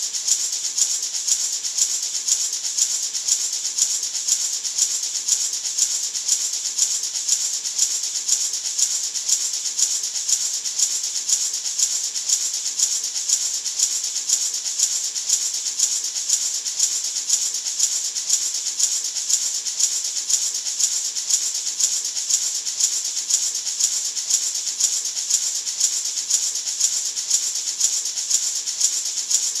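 Natural gourd maraca being shaken in a steady, even rhythm, its seeds giving a bright, hissing rattle.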